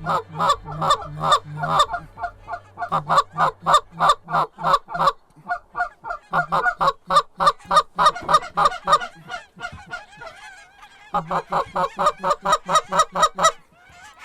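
Goose calls blown hard in a fast, evenly spaced run of honks and clucks, about four or five a second, to bring in an approaching flock. They break off briefly near ten seconds, when fainter wavering goose calls come through, then resume until just before the end.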